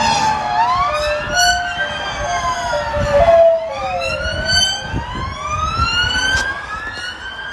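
Several emergency-vehicle sirens sounding at once, each wailing slowly up and down in pitch and overlapping the others, with a lower siren tone stepping downward, over a low traffic rumble.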